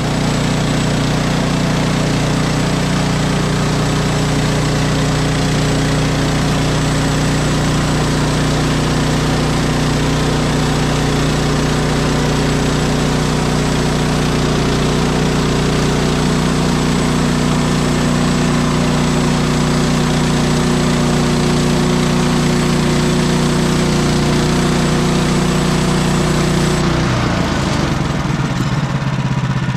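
Woodland Mills HM130MAX portable bandsaw mill running steadily under load, its gas engine driving the band blade through a spruce log with a constant high hiss over the engine note. Near the end the cutting hiss stops and the engine note changes as the cut finishes.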